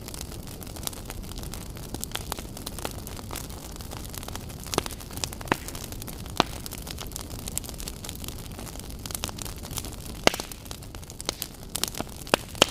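Wood fire burning with a steady low rumble and hiss, crackling with frequent irregular pops and snaps, several of them sharp and loud.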